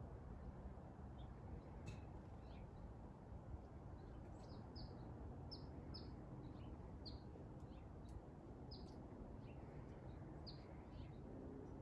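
A small bird chirping: short, high notes that slide down, about one a second from about four seconds in, over a faint steady low rumble.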